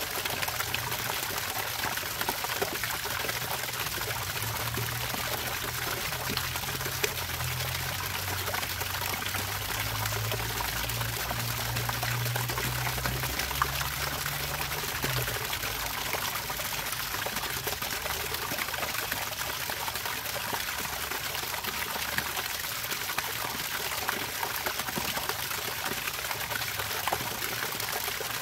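Water pouring and trickling steadily, with a low hum underneath that stops about halfway through.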